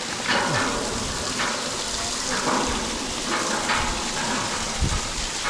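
Running hot spring water, a steady hiss with several short louder splashes about a second apart.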